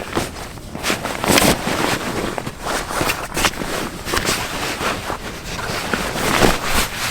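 Irregular rustling and knocking as the fabric cover and metal frame rods of a layout blind are handled and pushed.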